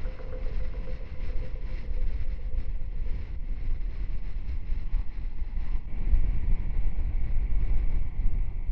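Wind buffeting the microphone over the low rumble of a motorcycle riding along the road, a little louder from about six seconds in.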